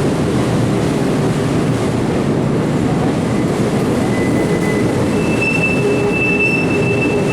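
Train running on the rails with a steady, dense running noise. A thin, high wheel squeal comes in about three seconds in and grows louder and higher from about five seconds in.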